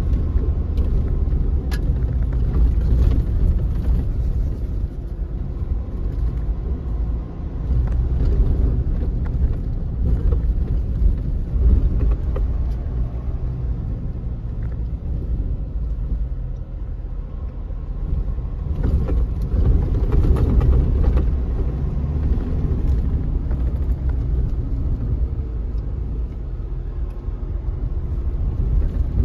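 Changan Hunter diesel pickup driving over an off-road track: a steady low rumble of engine and tyres that swells and eases, with occasional light rattles.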